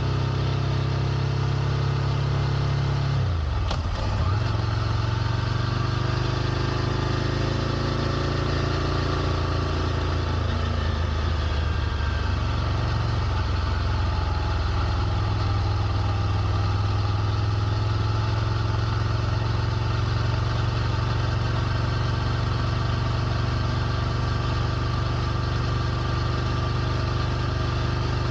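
Ducati Scrambler Nightshift's air-cooled 803 cc L-twin idling. About three seconds in, the engine speed dips sharply and then recovers, and it wavers slightly before settling back to a steady idle.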